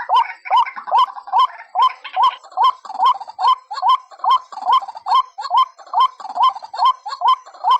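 White-breasted waterhen call played as a trapping lure: a fast, even series of repeated calls, a little over two a second, each a sharp onset followed by a short upward-hooked note.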